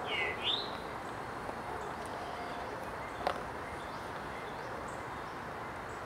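Eastern towhee giving one quick call at the very start, a falling note followed by a rising one, over a steady background rush. A single sharp click comes about three seconds in.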